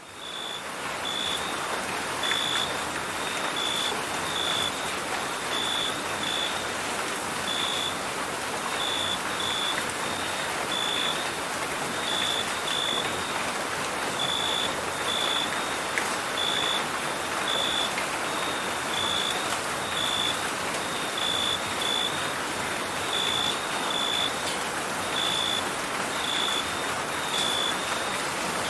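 Steady rain falling, with crickets chirping over it in short, high chirps that repeat about twice a second at uneven spacing. The whole sound fades in over the first second.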